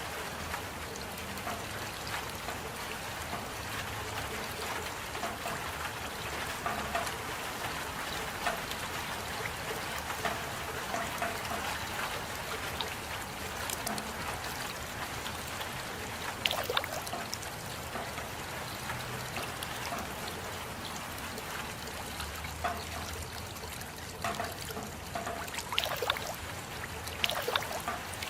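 Steady rain falling, with a few louder individual drops or drips standing out now and then, several of them near the end.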